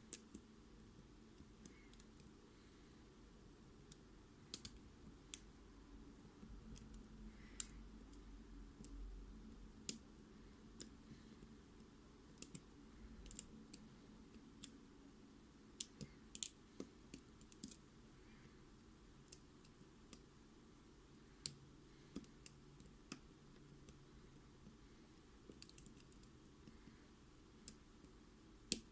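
Faint, irregular small clicks and ticks of lock-picking tools working inside a Mul-T-Lock MT5+ cylinder, with single sharper clicks every second or two.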